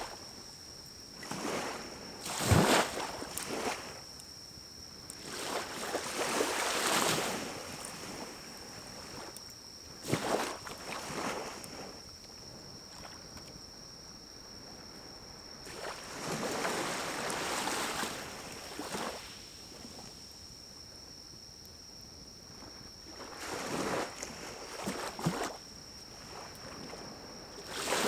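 Pine cones burning in a small wood-burning camp stove: irregular surges of rushing noise from the fire, with a few sharp crackling pops, over a steady high-pitched whine.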